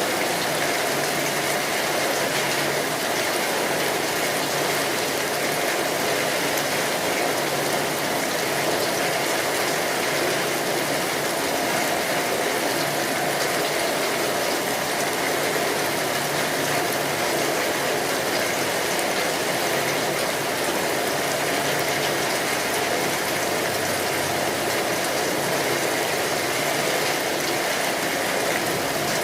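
Steady rain, an even hiss that stays unchanged throughout.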